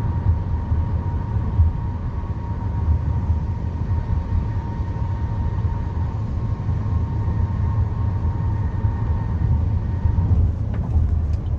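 Steady road and engine rumble heard inside a moving car's cabin, with a faint steady high tone above it.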